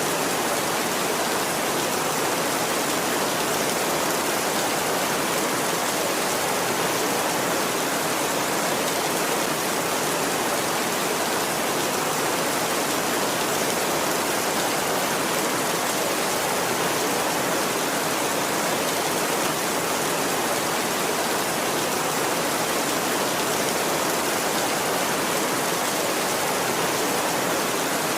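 Heavy rain falling steadily on a tin roof, an even hiss that does not change.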